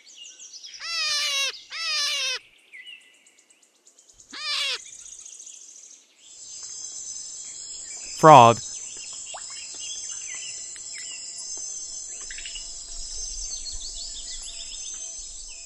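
European brown hare giving three short, high-pitched squealing cries, each falling away at its end. Then a dense, steady high chirping chorus of tropical frogs and insects.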